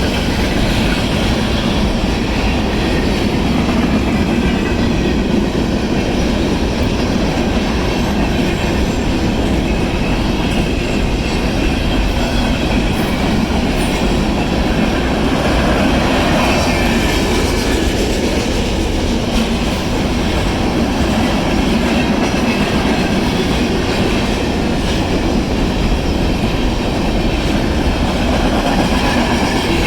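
Freight cars of a Union Pacific manifest train rolling steadily past at close range, wheels running on the rails.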